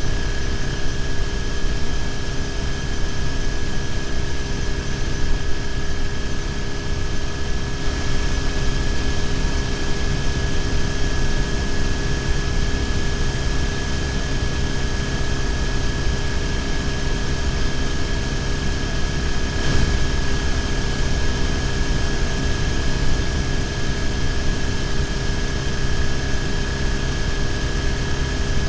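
BMW R1150GS motorcycle's air-cooled boxer twin engine running at a steady cruising speed, with wind and road noise over a bike-mounted microphone. The engine's pitch holds constant throughout.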